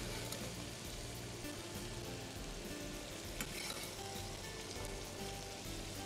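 Boiled potato chunks sizzling as they fry in a pan of melted butter and olive oil, stirred with a wooden spoon, with a light click about halfway through.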